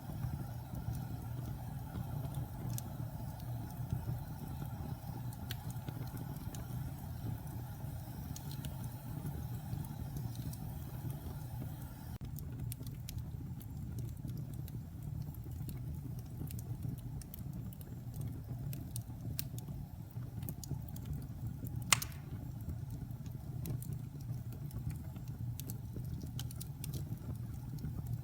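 Wood fire burning in a fireplace: a steady low rumble of flames with scattered light crackles of burning logs, and one sharp, loud pop about three quarters of the way through.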